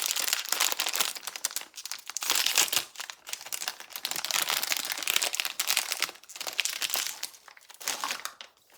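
Plastic packaging crinkling and crackling as it is handled and pulled open to unwrap a small blind-box toy figure, in uneven bursts that die away near the end.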